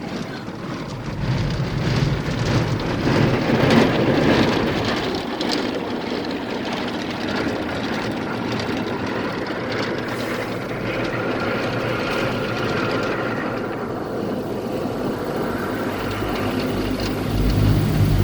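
Automatic car wash machinery running, heard from inside the car: a steady noise of spray and machinery that swells early on, with a low rumble building near the end.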